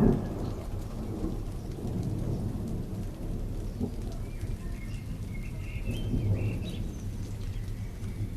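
Steady rain with a low rumble of thunder, loudest at the start and dying away in the first second. A few faint high chirps come through from about halfway in.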